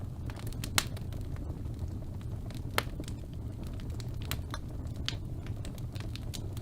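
Birch logs burning in a fireplace, crackling and popping irregularly over a steady low rumble of the flames, with two sharper pops about a second in and near three seconds.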